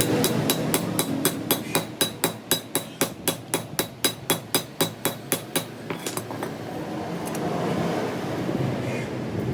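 A hammer striking metal in a fast, even run of about four ringing blows a second, stopping about six seconds in, followed by a few lighter taps over a steady workshop hum.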